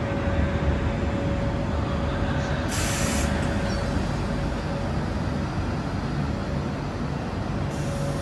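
High-speed train at a station platform: a steady hum with a fixed mid-pitched tone. A short burst of compressed-air hiss comes about three seconds in, and another near the end.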